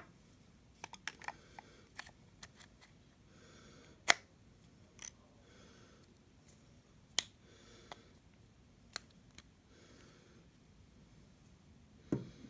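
Sharp little clicks and snaps of plastic being handled, about a dozen scattered, the loudest about four and seven seconds in, with soft rustling between them.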